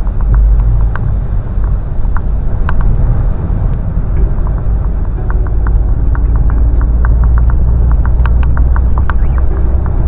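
A car driving on a snowy road, heard from inside the cabin: a steady low rumble of engine and tyres, with many short sharp ticks scattered through it.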